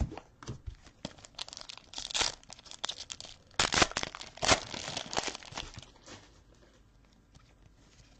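Trading-card pack wrappers being torn open and crinkled, in a series of short rips that are loudest from about two to five seconds in, then quieter handling of the cards.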